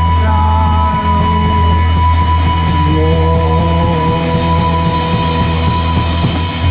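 Rock band playing live: electric guitar holding long notes that slide between pitches over a steady bass, with no singing.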